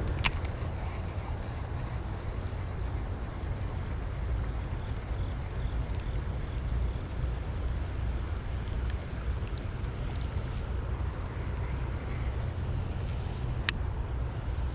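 Small birds chirping in short, high notes over a steady low rumble, with a sharp click near the start and another near the end.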